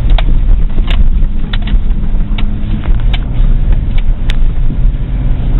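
Plow truck running, a loud steady low rumble, with scattered short sharp knocks every second or so.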